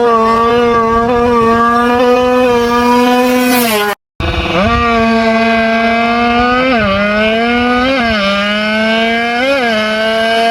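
Tuned drag-bike motorcycle engine held at high, steady revs, with brief throttle blips that push the pitch up and back three times in the second half. The sound drops out briefly about four seconds in, then resumes.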